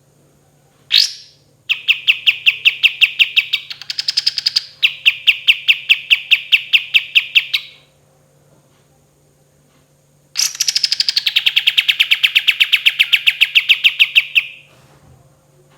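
A kapas tembak songbird singing long rolling trills of rapidly repeated notes: one short call, then two long trills separated by a pause of a couple of seconds.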